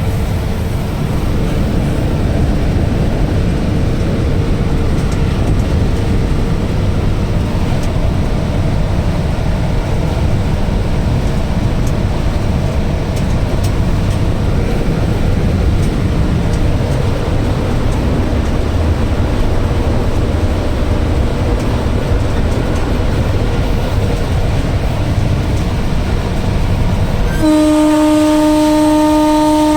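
Train running with a steady low rumble, and near the end a locomotive horn sounding one long held blast.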